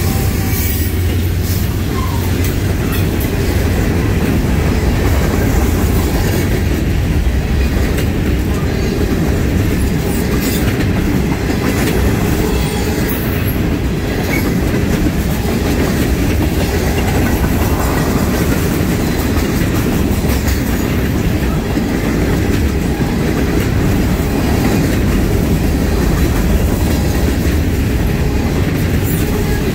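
Diesel freight train passing close by. In the first seconds the engines of its trailing locomotives run past, then comes a steady rumble of freight cars rolling by, with clicks of the steel wheels over the rail joints.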